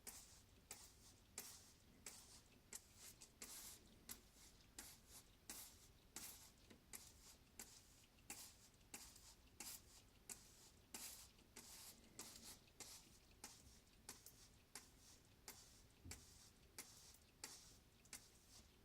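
Faint, irregular clicks and short rustles, about two or three a second.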